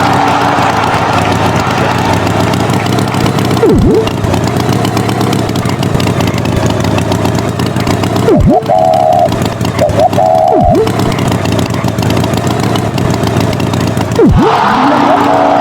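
Cartoon tractor engine sound effect running steadily. It is broken by four quick boing-like swoops that dive down in pitch and spring back up, and there are two short high tones near the middle.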